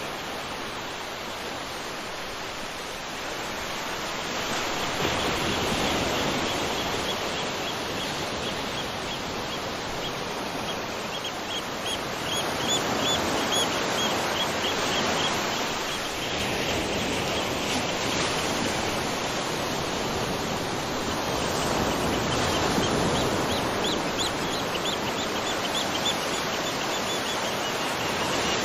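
Waterfall: a steady rush of falling water, growing louder a few seconds in. A bird calls in fast runs of short high notes through the middle and again near the end.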